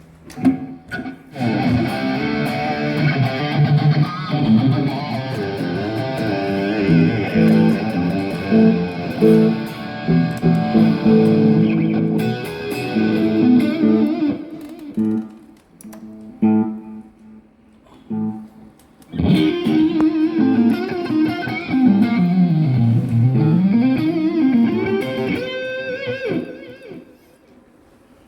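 Electric guitar played through an amplifier: two melodic lead phrases with a quieter gap between them. In the second phrase one note glides down in pitch and back up again.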